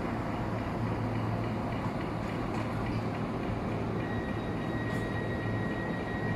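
Train moving through the station with a steady rumble and low hum; a thin, steady high whine sets in about four seconds in.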